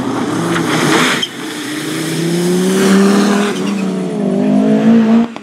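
Rally car engine revving hard under acceleration, its pitch climbing and stepping with gear changes. A short loud rush of noise comes about a second in. The sound falls away sharply near the end.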